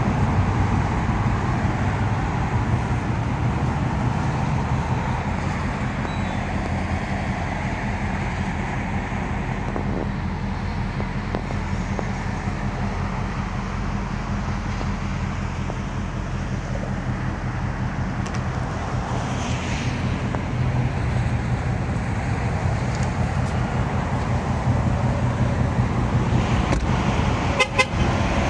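Ford Mustang Mach 1's 5.0-litre V8 idling steadily with a low, even rumble, and a few light clicks near the end.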